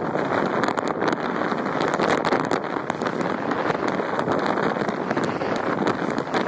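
Wind buffeting the microphone: a loud, steady rush broken by many short crackling pops.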